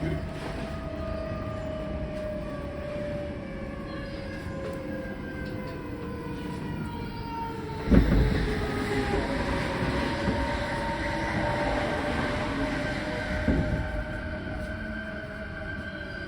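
Odakyu 4000-series electric train running, heard from inside a car: the traction motor whine falls steadily in pitch as the train slows, over a constant rumble of wheels on rail. About halfway through there is a loud thump, and a smaller one comes a few seconds later.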